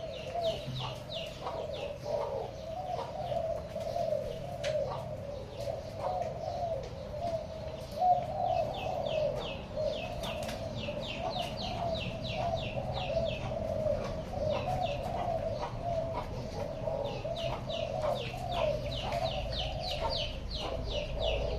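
Doves cooing without a break, with several runs of quick, high, repeated chirps from another bird.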